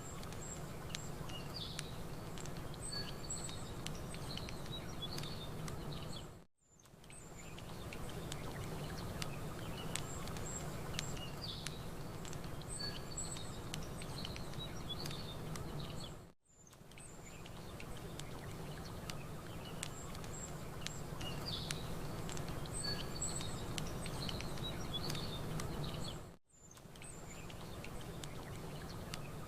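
Campfire crackling under small birds chirping, over a steady low wash of lake water. The sound briefly fades out and back in three times, about ten seconds apart, as the track loops.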